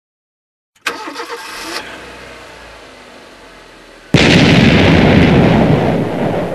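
Cartoon car engine sound effect starting up and running. About four seconds in, a sudden, much louder noise takes over and holds for a couple of seconds before cutting off abruptly, as the car breaks down.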